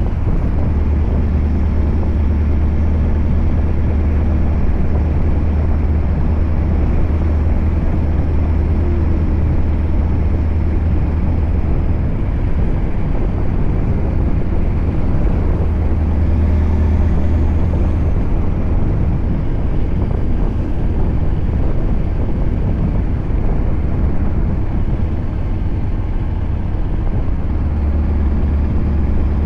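Scania R580 V8 diesel with an 8-inch straight-pipe exhaust running while the truck drives, a steady deep drone that eases off twice and picks up again near the end.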